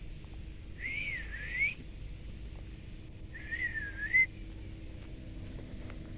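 Two wavering high whistles, each just under a second long and a couple of seconds apart, each dipping and rising again in pitch.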